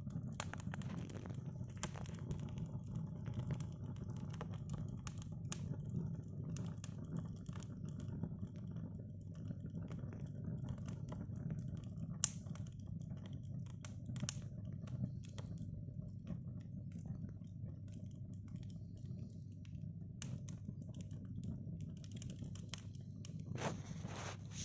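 Wood fire crackling in a fireplace: a steady low rumble of flame with scattered snaps and pops, and one sharp loud pop about twelve seconds in.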